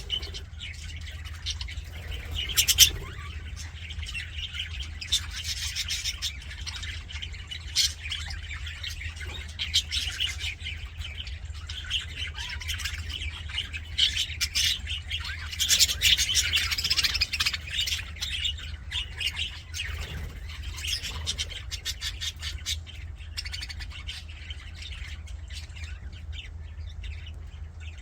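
A group of budgerigars chattering and warbling without pause, with sharp squawks and chirps breaking out now and then, over a steady low hum.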